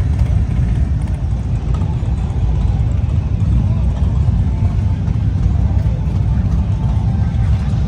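Steady low rumble of motorcycle engines running, with faint voices behind it.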